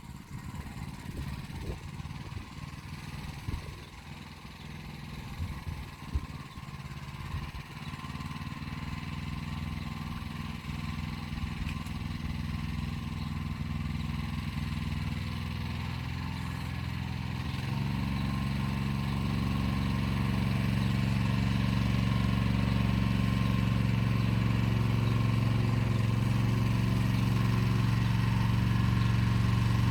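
Motor Sich walk-behind tractor engine running steadily, growing louder through the stretch and stepping up sharply about two-thirds of the way through. Irregular knocks come over it in the first several seconds.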